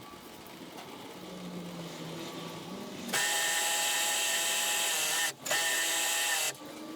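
Pressure washer spraying: a sudden loud whine and hiss of the jet starts about three seconds in, cuts out for an instant, resumes, and stops shortly before the end, as the trigger is pulled, let go and pulled again. A low steady hum runs underneath.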